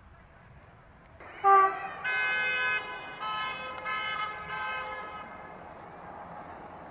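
Horn of a CFR X72500 diesel multiple unit: one short loud blast about a second and a half in, then a run of several changing multi-tone horn notes lasting about three seconds before it stops.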